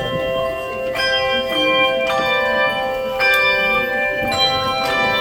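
Music of tuned bells ringing a slow melody, a new set of notes struck about once a second and left to ring on.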